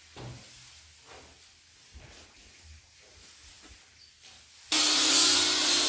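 Faint light knocks and rustles, then, near the end, a grinder cuts in suddenly at full speed with a loud steady whir and rasp as it grinds down the wooden rafters.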